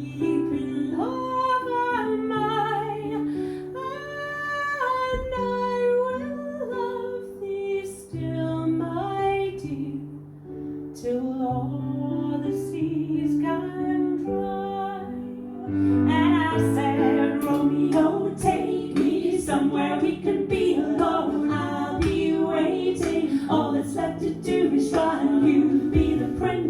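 Live music: a woman singing a melody without clear words over plucked guitar and held low notes. About two-thirds of the way through, more layered vocal parts join and the music gets louder and fuller.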